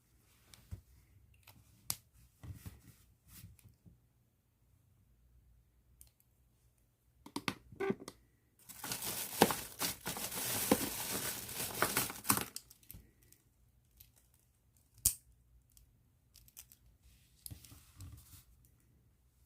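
Plastic bag crinkling as it is handled, a dense crackle lasting about four seconds in the middle, with scattered small clicks and taps before and after it and one sharp click a few seconds later.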